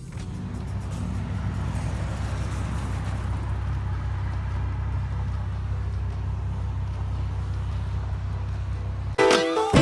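Lexus IS300 with its mufflers removed, driving with a steady low exhaust drone that builds over the first second and then holds. Music cuts in near the end.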